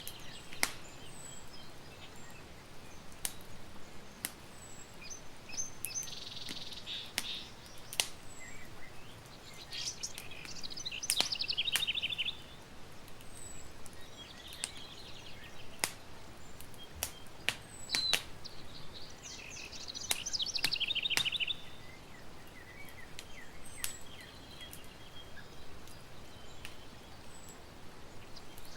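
Campfire crackling, with sharp irregular pops every second or so over a low steady hiss. A bird sings a fast trilled phrase several times, around a quarter, a third and two-thirds of the way through.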